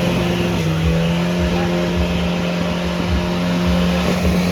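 Car engine held at steady high revs, its pitch level throughout, under a loud noisy hiss.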